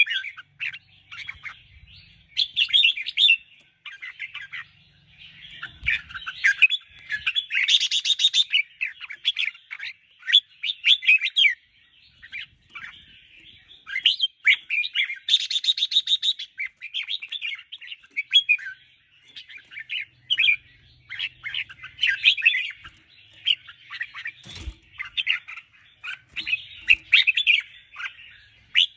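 Red-whiskered bulbul singing: quick runs of short chirping, warbling phrases with brief pauses between them, and a harsher buzzy note about eight seconds in and again around fifteen seconds.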